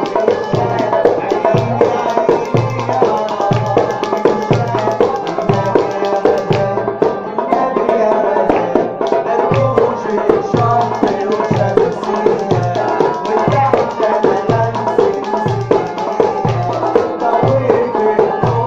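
Simsimiyya band music from Port Said: the plucked simsimiyya lyre playing a fast melody over a steady, even beat on a low hand drum.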